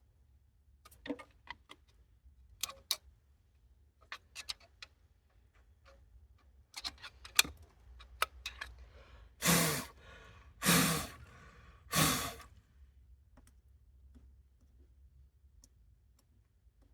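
Scattered small clicks and taps of tools working on the engine, then three short, breathy blows about a second and a half apart, blowing debris away.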